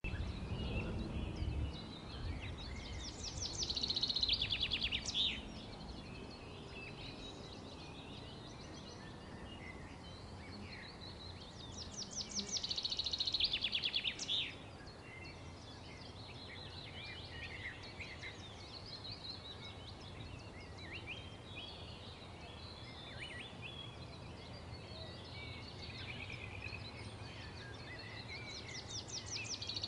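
Birds singing: a fast trilled phrase of rapid repeated notes comes three times, around four seconds in, around thirteen seconds in and again at the end, with scattered chirps and calls between, over a faint steady background noise.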